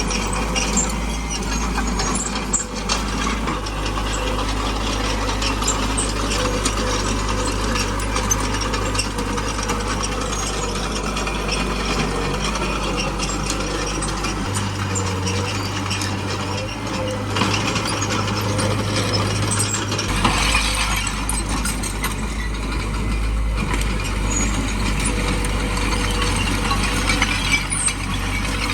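Small crawler bulldozer at work: its diesel engine runs steadily under a constant clanking and rattling of the steel tracks and undercarriage. The engine note shifts for several seconds around the middle.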